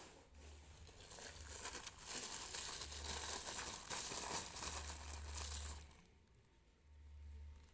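Crinkling and rustling of a packet being handled and opened, starting about a second in and stopping about six seconds in, with a little softer rustling near the end.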